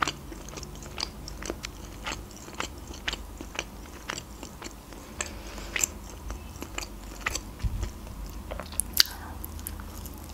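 A person chewing and biting a pan-fried blin with meat filling, with small crunches and wet mouth clicks about twice a second and a slightly louder crunch near the end.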